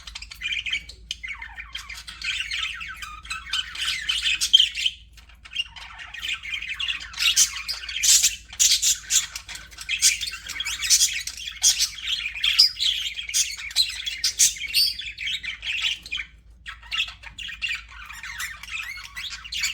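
A group of budgerigars chattering and chirping continuously, a dense mix of warbles, sharp chirps and squawks, with brief lulls.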